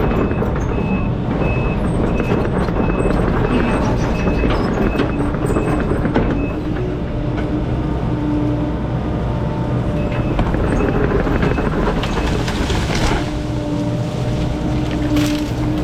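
Diesel engine of a piece of heavy equipment running hard, with its backup alarm beeping about twice a second in stretches.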